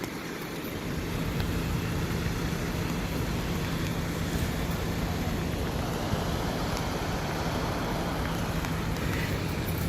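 Steady running noise of a moving road vehicle: a constant low engine hum under a thick wash of road and wind noise.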